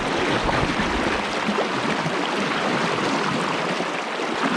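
Fast mountain river current rushing steadily, an even wash of water noise, with a few low bumps in the first second.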